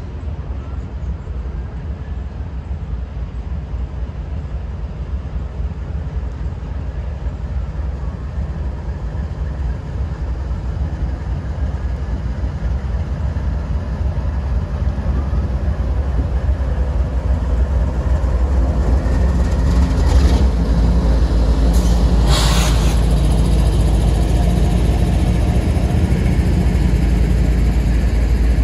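Norfolk Southern diesel freight locomotives running, a heavy low rumble that grows steadily louder, with a steady engine drone coming in about two-thirds of the way through. Two short bursts of noise come a few seconds apart near the end.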